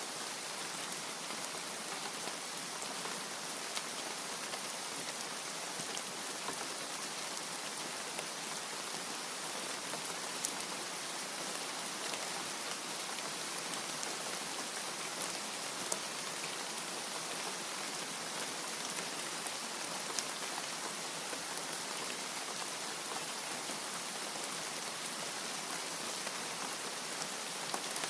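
Steady rain, an even hiss, with a few louder single drops ticking now and then.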